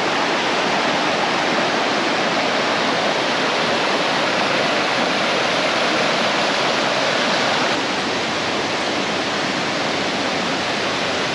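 Rainforest creek water rushing over rocks in a steady rush, a little softer from about eight seconds in.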